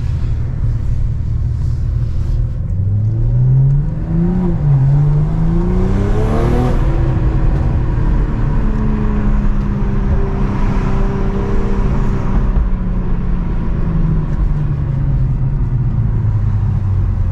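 BMW M340i's turbocharged 3.0-litre straight-six, fitted with an aftermarket downpipe, accelerating: the engine pitch climbs, drops briefly at a gear change about four seconds in, and climbs again. It then settles into a steady cruise, over constant low road rumble.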